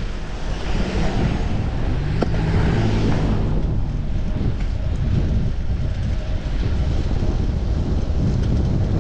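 Wind buffeting a chest-mounted GoPro microphone on a moving bicycle, a steady low rumble. A passing motor vehicle adds a low engine hum and tyre hiss from about one to three seconds in.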